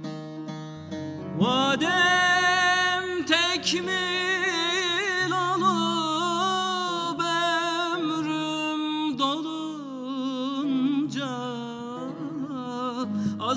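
Turkish folk song (türkü): a voice enters about a second in and sings long, wavering, ornamented held notes over sustained instrumental accompaniment.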